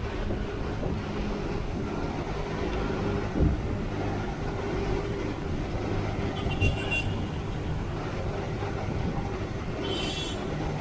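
A vehicle running, heard from on board: a steady low rumble with a couple of sharp knocks, and short high squeals about two-thirds of the way through and again near the end.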